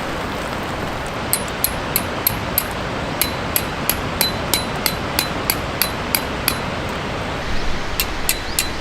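Sharp metallic taps, evenly spaced at about three a second, each with a brief ring. They start about a second in, pause near the end, then resume. A steady hiss lies under them throughout.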